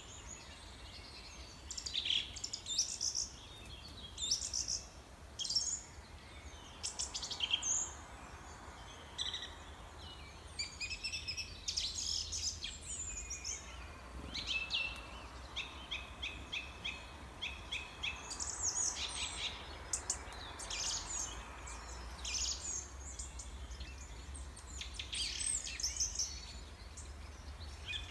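Songbirds chirping and singing, many short high calls with several birds overlapping, and a run of evenly repeated notes about halfway through.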